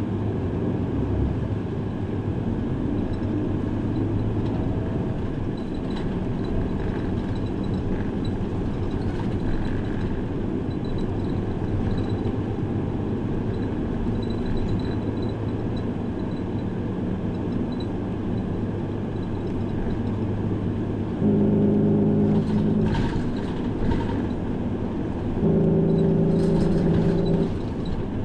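Route bus running, heard from inside the cabin: a steady engine and road rumble. Near the end, two loud steady tones of about two seconds each sound a few seconds apart.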